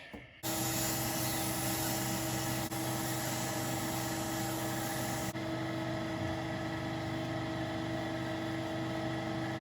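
Metal lathe running steadily, a mechanical hum with a fixed whine. It starts suddenly about half a second in and cuts off abruptly at the end.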